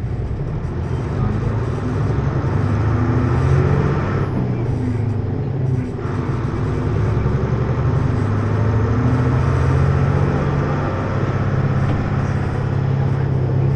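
Hino U-HT2MLAA city bus heard from inside while under way: a steady low diesel drone, its higher noise briefly dropping away between about four and six seconds in. The bus's running sound tends toward abnormal noises, like a bus near the end of its service life.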